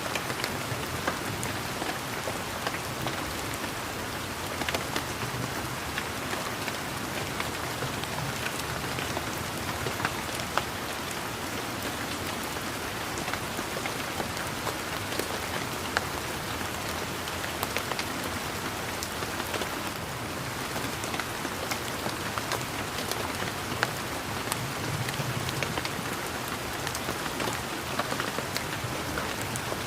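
Steady rain falling, a continuous hiss with many separate drops ticking on leaves and surfaces throughout.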